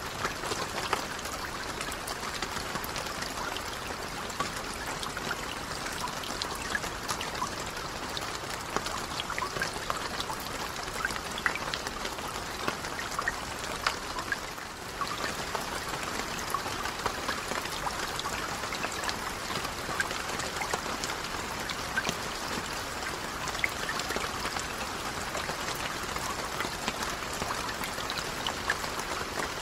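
Steady rain falling on a lake's surface: an even hiss dotted with many small ticks of individual drops. The sound dips briefly about halfway, then carries on unchanged.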